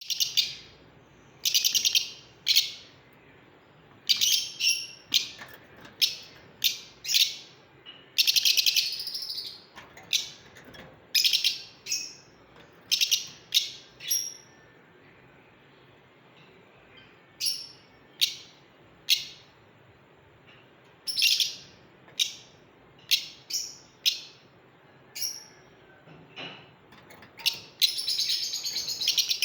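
Lovebirds calling: many short, sharp, high-pitched chirps at irregular intervals, a few stretched into longer screeches, with a lull of a few seconds around the middle.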